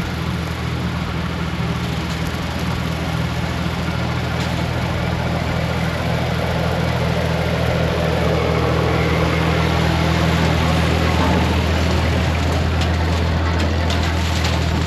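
Tractor engine running at a steady pitch, with a broad rushing noise over it that swells somewhat around the middle.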